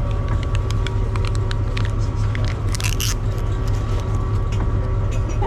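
Steady low drone of a tour boat's engine, with scattered clinks and clicks over it and a brief hiss about three seconds in.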